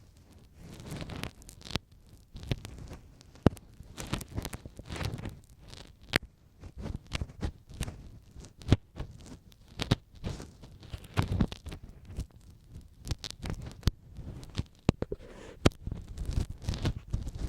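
Ear pick scraping and scratching very close inside a microphone's ear, with irregular sharp clicks and low rubbing noises.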